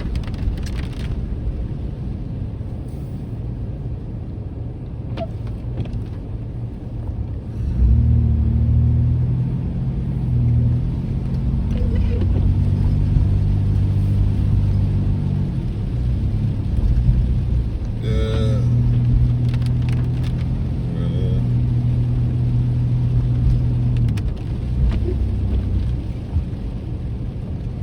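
Car engine and road noise heard from inside the cabin while driving. The engine note strengthens about 8 seconds in and again about 18 seconds in, as under acceleration. A brief pitched tone sounds about 18 seconds in.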